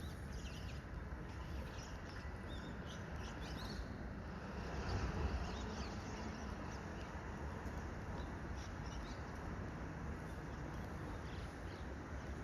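Small birds giving short, high chirps here and there over a steady low background rumble, which swells briefly about a third of the way in.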